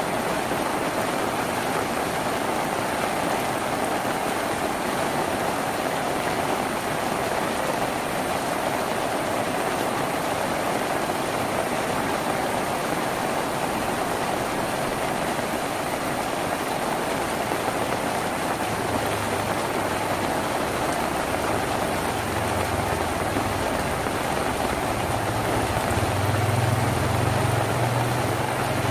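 Rain falling on a tin roof, a steady dense hiss. A low rumble swells in during the last third and is loudest a couple of seconds before the end.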